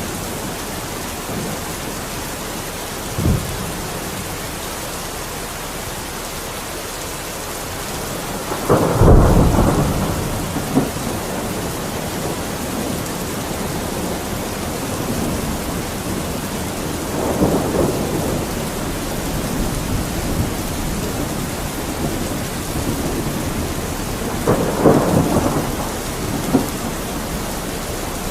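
Steady rain falling as an even hiss, broken every several seconds by short, deeper swells of louder sound. The loudest swell comes about nine seconds in.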